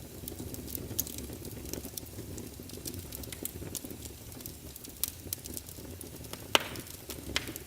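Wood fire crackling in a fireplace: a steady low rumble of flames with scattered sharp snaps and one louder pop about six and a half seconds in.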